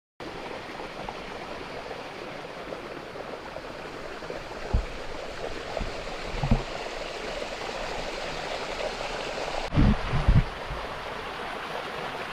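Mountain stream rushing over rocks: a steady, even wash of running water, with a few short low thumps around the middle and a cluster of them near the end.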